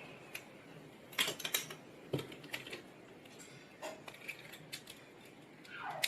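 Scattered sharp clicks and crackles of a cracked phone display's glass breaking and snapping as it is pried off the frame, with a cluster about a second in.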